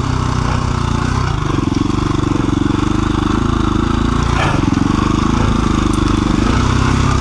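2017 KTM 350 EXC-F single-cylinder four-stroke dirt bike engine running at fairly steady, low trail-riding revs, with small rises and dips in pitch as the throttle is worked.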